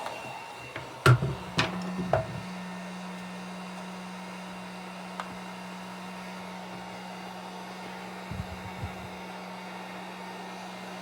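Heat gun running on a low setting, a steady blowing hiss as it warms the plastic of the animatronic's reshaped nose. A few sharp knocks come about a second in, after which a steady low hum joins the blowing, and a couple of faint knocks follow near the end.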